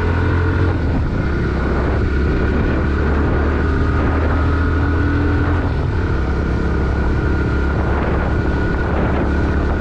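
Bajaj Pulsar NS160's single-cylinder four-stroke engine running steadily as the motorcycle rides along, at an even pitch with no hard revving.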